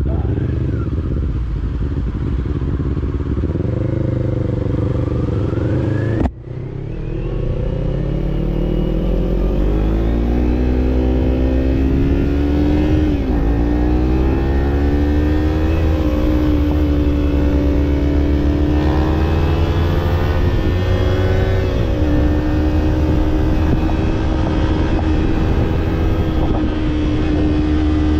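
Kawasaki parallel-twin motorcycle with an aftermarket slip-on exhaust under way, revving up through the gears with several upshifts, then holding a steady cruise for the last several seconds. The sound cuts off abruptly for a moment about six seconds in.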